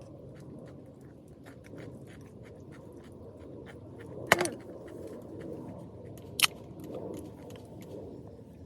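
Two sharp clinks of cooking utensils or dishware, about four and six seconds in, the first ringing briefly, over a background of small scattered clicks and light handling.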